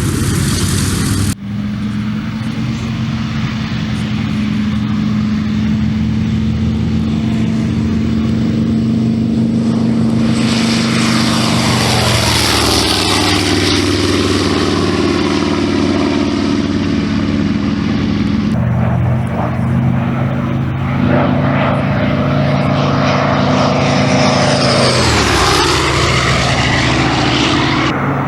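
The CA-13 Boomerang's 14-cylinder Twin Wasp radial engine running steadily, then louder and rougher about a third of the way in. Its pitch drops twice as the aircraft passes, the second time near the end.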